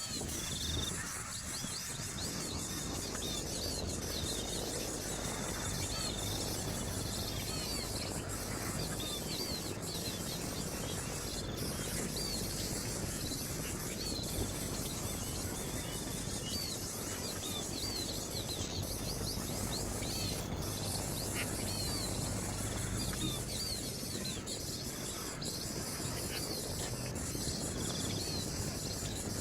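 Birds chirping, short high chirps repeated in little clusters throughout, over a steady background of insects buzzing.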